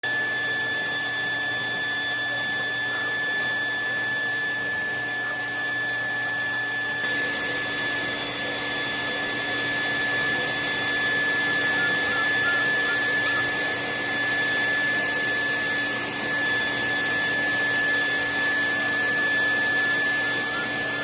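High-velocity pet blow dryer running steadily: a constant rush of air with a steady high whine.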